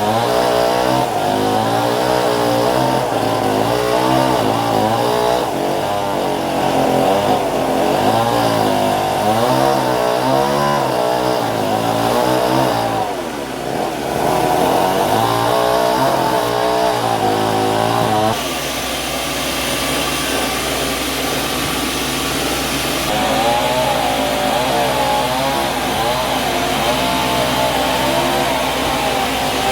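Sawmill machinery running, an engine whose pitch rises and falls over and over, as a motor does when it takes and sheds load. About 18 seconds in it changes abruptly to a steadier machine sound.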